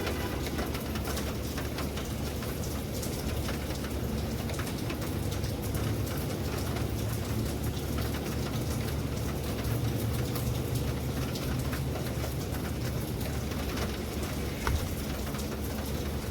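Steady rain, with many individual drops tapping on a surface over a steady low rumble, and one louder tap near the end.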